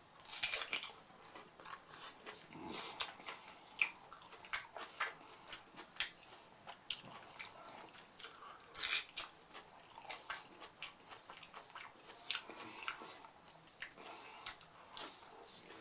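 Close-up biting and chewing of a crunchy fried mini beef taco, taken in three bites: sharp, irregular crunches of the hard shell cracking between the teeth, with softer chewing between them.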